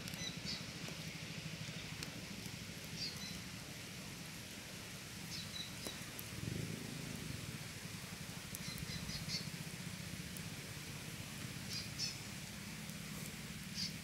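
A small bird calling in short high chirp phrases, repeating every two to three seconds, with a longer run of quick notes about nine seconds in, over a steady low background hum.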